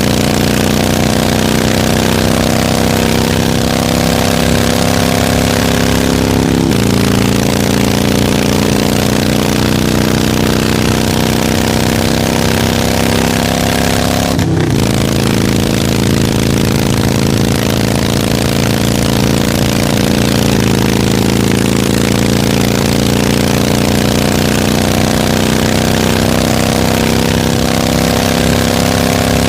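Harley-Davidson V-twin motorcycle engine running under way. Its pitch climbs slowly, then drops sharply three times, with a brief break in the sound at the middle drop.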